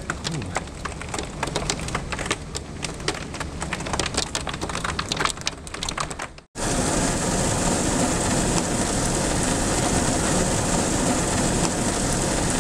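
Hailstones pelting down, a dense patter of separate sharp impacts; about six seconds in it cuts abruptly to a steady, louder downpour of heavy rain and hail.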